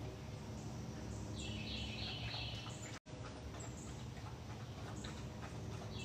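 A bird singing a short run of quick repeated high chirps about a second and a half in, over steady outdoor background noise.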